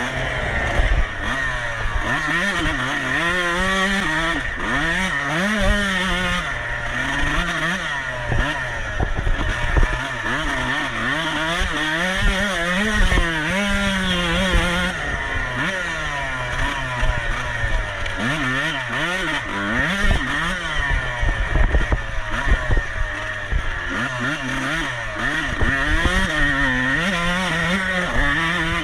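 Off-road motorcycle engine racing, revving up and dropping back again and again as the rider works the throttle and gears. Low knocks and rumble run underneath.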